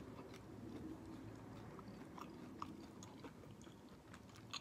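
Faint chewing of fried chicken, with scattered small mouth clicks.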